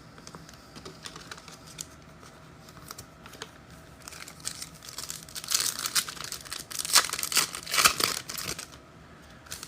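A foil trading-card pack wrapper crinkling and tearing as it is ripped open, after a few seconds of faint card-handling ticks.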